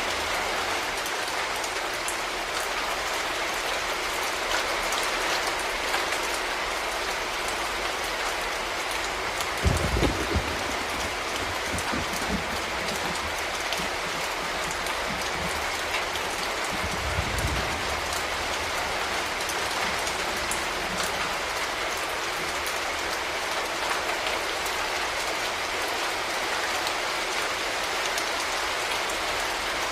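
Steady rain falling, a dense even patter of drops. Brief low rumbles come about ten seconds in and again around seventeen seconds.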